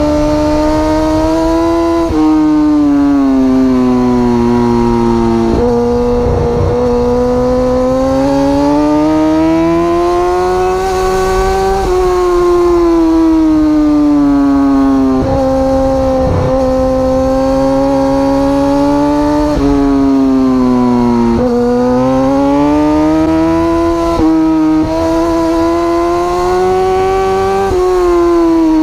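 Superbike engine running at high revs, its pitch climbing and falling, with sudden steps every few seconds as gears are changed.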